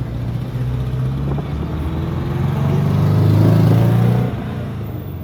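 A car engine pulling hard, its note growing louder to a peak about three and a half seconds in, then dropping away sharply just after four seconds.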